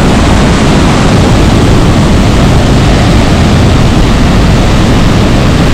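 Steady, loud roar of the Pailón del Diablo waterfall, a large cascade crashing into its gorge.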